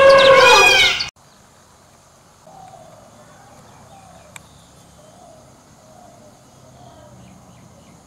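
A loud pitched call sliding up and down cuts off about a second in. After it come faint short bird calls, repeated roughly once a second, over a steady high hiss.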